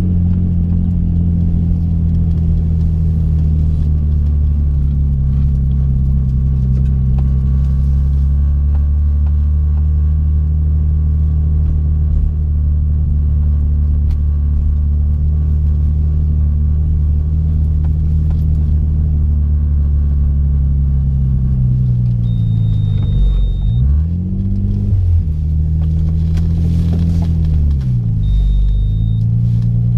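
Twin-turbocharged 3.5-litre V6 of a modified 2005 Infiniti G35 coupe, heard from inside the cabin, running steadily under way with a deep drone. Near the end the revs drop and pick back up twice, and a short high beep sounds twice.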